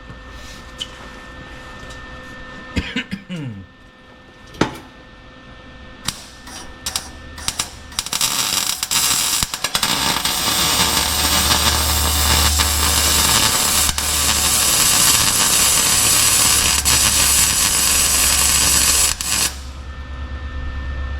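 Wire-feed welder laying a weld bead on an exhaust pipe: a steady crackling sizzle that starts about eight seconds in, with the welder's hum beneath, and stops abruptly near the end. Before it, a few clicks and knocks of handling the work.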